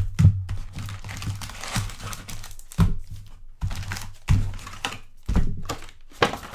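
A trading card hobby box being opened and handled: its plastic wrapping and foil packs crinkle, with several thunks of cardboard knocking against the table, at irregular moments.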